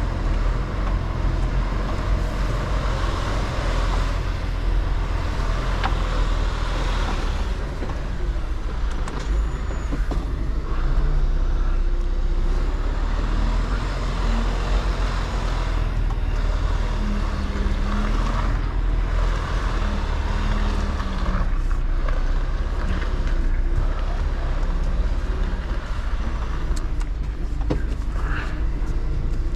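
Mercedes Actros L truck's diesel engine running steadily at low speed while manoeuvring, a constant deep rumble with road and tyre noise over it.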